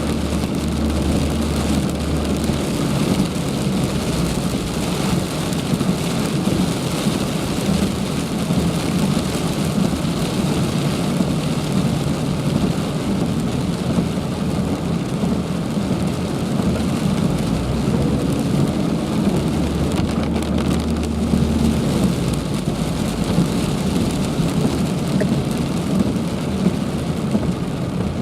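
Heavy rain falling in a steady, dense hiss, with a low rumble at the start and again about two-thirds of the way through.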